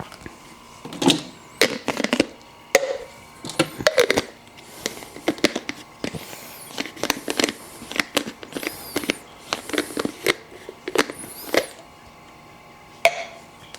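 Plastic baby bottle parts clicking and knocking as lids and nipple rings are handled and fitted, with short rubbing scrapes of plastic in between.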